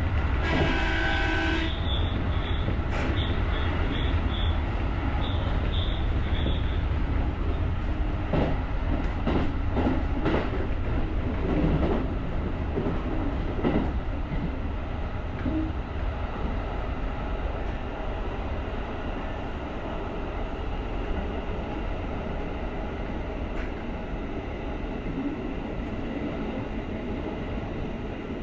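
JR rapid electric commuter train running along the track: a steady low rumble of wheels on rail. A cluster of sharp clicks from the wheels over rail joints or points comes about a third of the way in. A brief pitched tone sounds at the very start.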